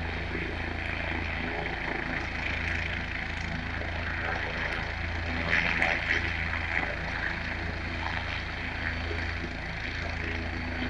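Air ambulance helicopter running steadily, its rotor giving a pulsing low beat.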